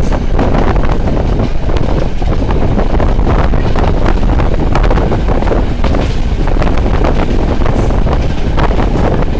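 Moving train heard from an open window: heavy wind buffeting the microphone over the train's steady running noise, with wheel and carriage rattles throughout.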